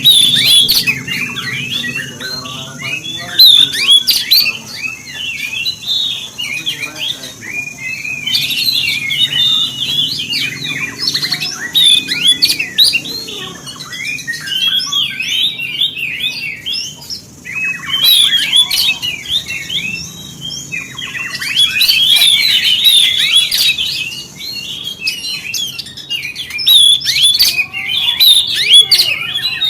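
Oriental magpie-robin (kacer) singing a fast, nonstop run of high chirps, whistles and harsher notes, with a few short breaks. It is an agitated lure song, the kind played to provoke other magpie-robins into singing.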